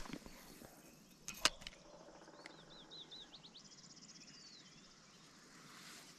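A songbird singing a short phrase of about five quick repeated chirps, followed by a brief fast trill, over faint riverside ambience. A single sharp click about a second and a half in is the loudest sound.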